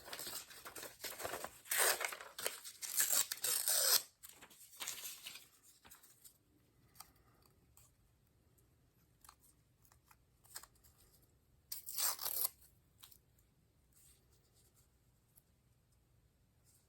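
A piece of printed book page being torn by hand: a run of rough rips over the first four seconds, tapering off, then faint paper handling with one more short tear or rustle near twelve seconds.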